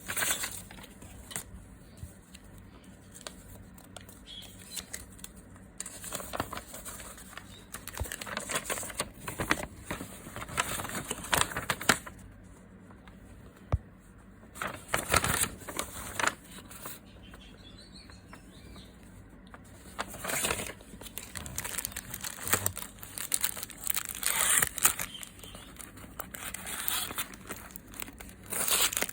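Plastic packaging crinkling and tearing as it is unwrapped by hand, in irregular bursts of rustling with quieter gaps between.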